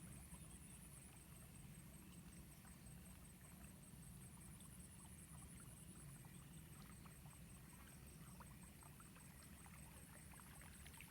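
Near silence: a faint steady low rumble with a few scattered faint ticks.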